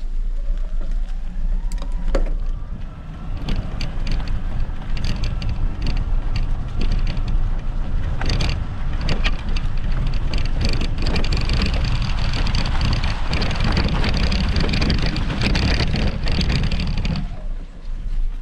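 E-bike ride on a forest trail: a steady low rumble of wind buffeting the microphone and tyres on the ground, with many clicks and rattles from the bike over rough terrain. The rumble starts abruptly and cuts off a little before the end.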